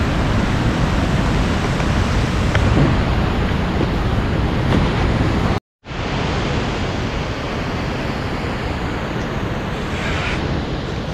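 Steady rush of the Maligne River's whitewater churning through the canyon gorge. It breaks off for a split second a little past halfway through.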